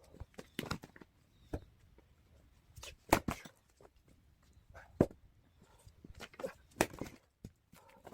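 Axe splitting firewood: three hard, sharp strikes about two seconds apart, with lighter knocks and footsteps on the ground in between.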